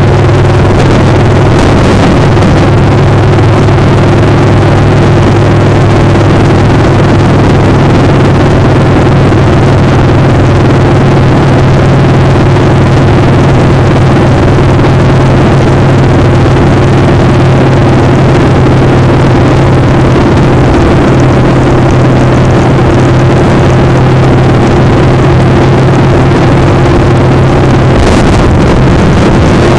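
Motorcycle engine running at a steady cruising speed under heavy noise, very loud throughout; the engine note shifts near the end.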